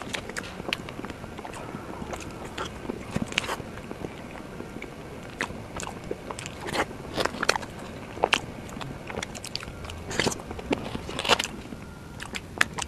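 Close-miked chewing and eating of soft mousse cake: irregular sharp mouth clicks and smacks, with a spoon scraping through the cake.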